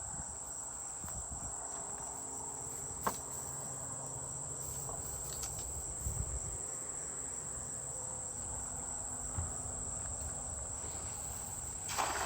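Insects chirring steadily at a high pitch, cricket-like, with a few faint knocks and a brief louder noise right at the end.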